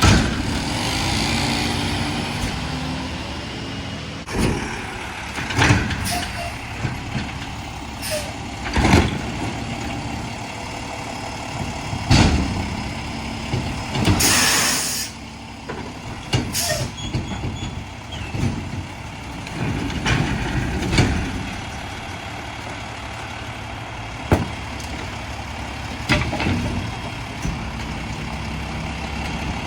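Mack LR garbage truck with a McNeilus automated side-loader body running, with repeated knocks and clanks and a loud burst of air-brake hiss about halfway through.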